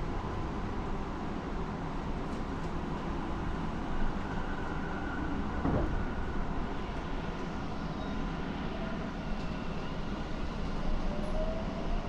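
Inside a Tobu 30000 series electric train car with a Hitachi IGBT-VVVF inverter: a steady low running rumble with faint whining tones, and a rising whine near the end.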